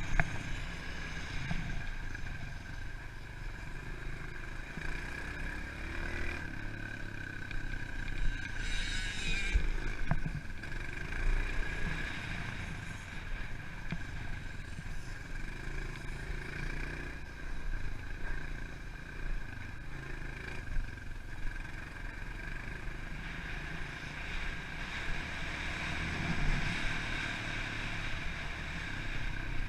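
Pit bike engine running while it is ridden, its note swelling and easing with the throttle over a low rumble. There is a brief hissing rush about nine seconds in.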